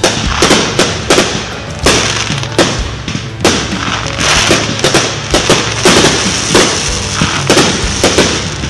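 Aerial fireworks going off in quick succession: an uneven string of sharp bangs, about two or three a second, with crackling between them.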